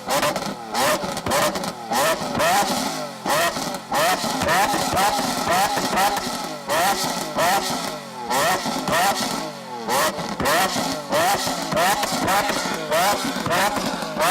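Lamborghini Aventador SV's 6.5-litre V12 revved in quick, repeated blips, the pitch climbing and falling about twice a second, with exhaust crackles and pops between the blips.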